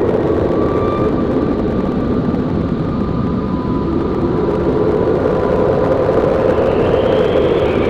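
Blizzard wind howling in a steady, loud rush. Faint whistling tones ride on top: a thin whistle in the first half, and a higher one swelling and falling near the end.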